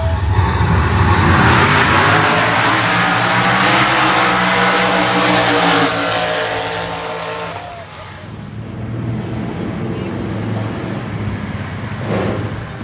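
A car engine running loud, easing off about six seconds in and quieter from about eight seconds on.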